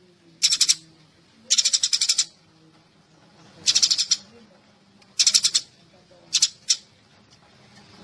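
Sparrow chirping in five quick bursts of rapid, high chirps, each burst under a second long, with short pauses between: a recorded sparrow call used as a trapping lure.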